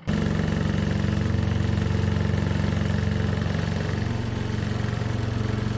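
Leisure Direct twin-tub portable washing machine's electric motor running with a steady, even hum; it starts abruptly.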